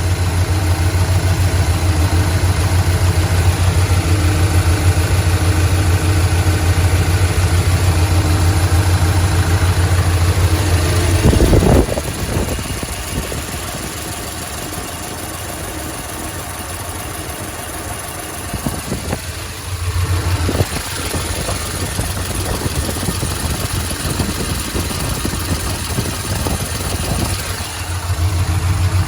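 Car engine idling with a tick that the owner suspects is lifter tick, possibly fading. Its steady low hum is loud at first, with a brief surge about eleven seconds in, then quieter until it grows loud again near the end.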